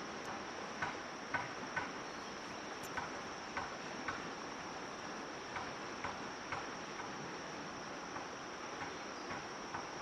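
Steady high-pitched drone of crickets or similar insects, with about a dozen light, irregular knocks or taps over it.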